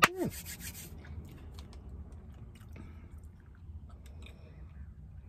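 Mouth noises of chewing a mouthful of pasta. Right at the start comes a sharp hand clap with a short vocal sound that falls in pitch, the loudest moment.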